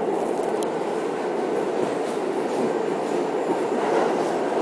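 New York City subway train running, heard from inside the car: a steady rumble and rush of wheels on the track.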